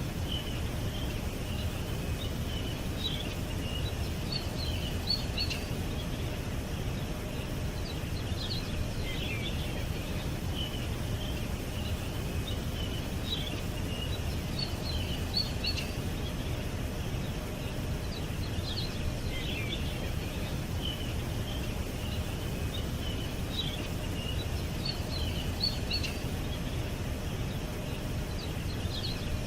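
Several small birds chirping and twittering in short, scattered calls over a steady low background rumble.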